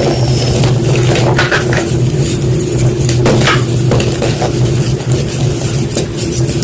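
Block of white gym chalk being crunched, with irregular crisp crackles and crumbles every second or so over a steady low hum.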